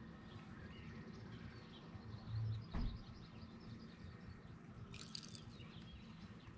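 Faint bird chirps over a low steady outdoor background, with a dull thump about two and a half seconds in and a short hiss near five seconds.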